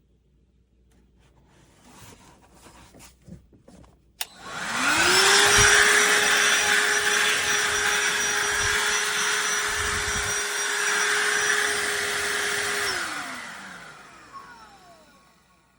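DEWALT DCV501HB 20V cordless handheld vacuum switched on with a click about four seconds in. Its motor spins up to a steady running tone with a high whine and rushing air, then is switched off near the end and winds down, its pitch falling.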